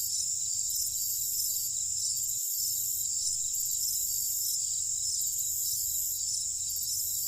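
Night chorus of crickets trilling steadily, with a higher pulsing layer repeating about once a second over a faint low rumble.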